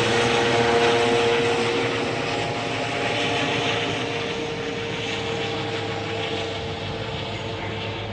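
Helicopter engine running with a steady whine and rushing noise, slowly fading as it moves away.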